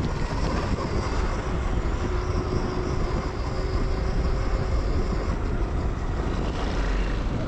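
Zero FX electric motorcycle being ridden: steady wind rush and low rumble on the microphone with tyre noise, and a faint steady whine from the electric drive for a few seconds in the middle.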